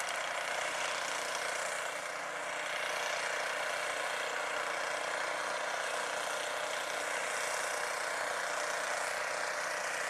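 Snow blower engine running steadily, heard at a distance.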